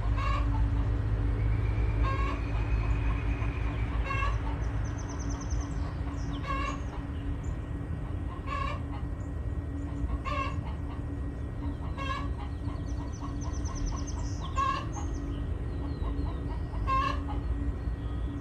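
Domestic hen singing the egg song: a loud call repeated about every two seconds, over a steady low hum.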